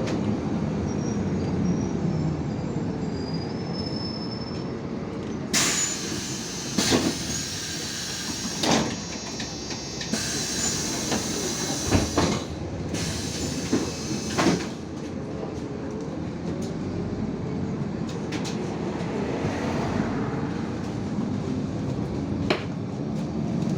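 Interior of an IVECO Crossway 13M LE city bus: the drivetrain winds down in pitch as the bus slows, then, from about a quarter to two thirds of the way through, the pneumatic doors hiss and knock several times as they open and close at a stop. Near the end the engine note rises again as the bus pulls away.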